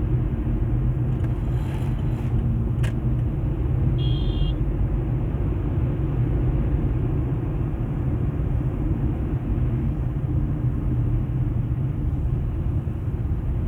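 Steady low rumble inside a moving car's cabin: engine and tyres running on a snow-covered city road. There are a few faint clicks early on and one short high beep about four seconds in.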